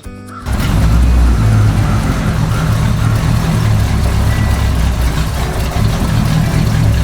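Engine running with a steady, heavy low rumble that starts suddenly about half a second in.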